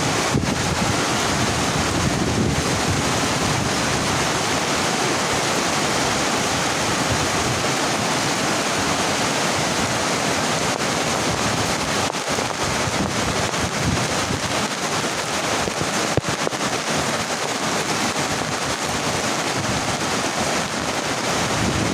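Heavy rain falling steadily as an even hiss. A single sharp tick comes about two-thirds of the way through.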